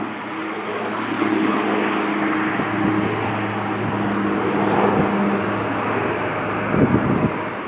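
Airplane engine noise from an aircraft at the airport: a steady rushing roar with a low hum running under it, with a short louder low burst about seven seconds in.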